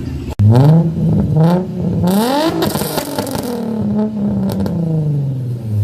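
Car engine through a loud aftermarket exhaust revved in several quick blips, pitch rising and falling, loudest and harshest about two to three seconds in, then easing back toward idle. The sound cuts in abruptly just after the start.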